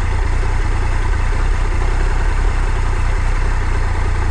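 Motorcycle engine running steadily with a heavy low rumble.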